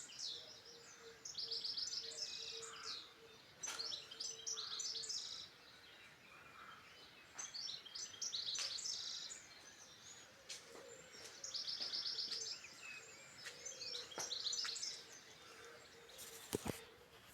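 Songbirds singing: short high song phrases, each with a fast trill, repeating every two to three seconds, with a faint steady hum beneath. A brief knock sounds near the end.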